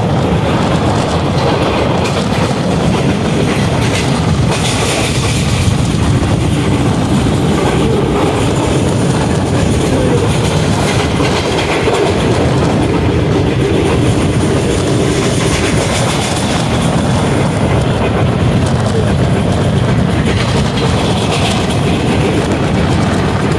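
Pakistan Railways rail car running at speed, heard from inside the carriage: a steady loud rumble of wheels on the track with frequent clacks over the rails.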